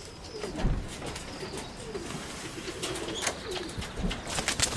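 Nikolaev high-flyer pigeons cooing, with a quick flurry of sharp clicks and rustles near the end.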